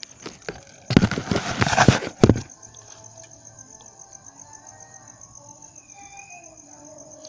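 A string of firecrackers (a "mil") going off in a fast crackle of bangs for about a second and a half, then crickets trilling steadily.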